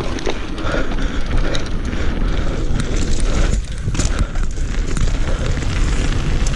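Wind buffeting the microphone over the steady rattle and rumble of a downhill mountain bike riding fast down a rough trail, with frequent knocks and clatters from the bike and the tyres hitting rough ground.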